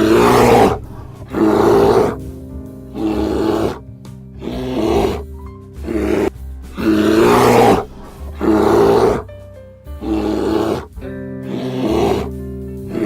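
An animal's harsh, grunting calls, repeating about every second and a half, over background music.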